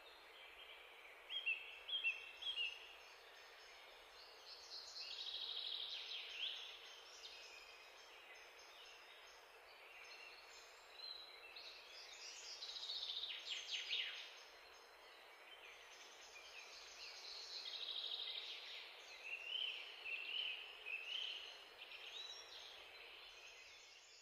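Songbirds singing over a steady hiss: repeated bursts of high chirps and fast trills, the loudest chirps a couple of seconds in, with longer trilling phrases around the middle.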